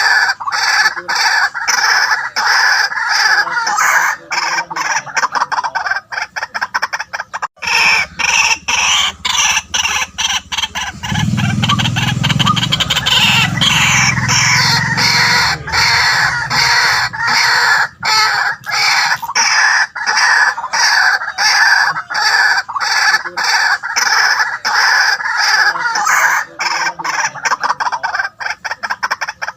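White-breasted waterhens calling: a continuous run of loud, harsh notes repeated several times a second, with a brief break about a quarter of the way in.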